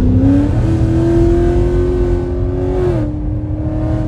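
6th-gen Camaro SS's 6.2-litre LT1 V8 accelerating. Its pitch climbs into a steady high note, then drops to a lower steady note about three seconds in.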